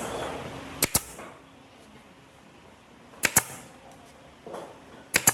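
Sharp double clicks or knocks, three pairs about two seconds apart, with low workshop noise between them.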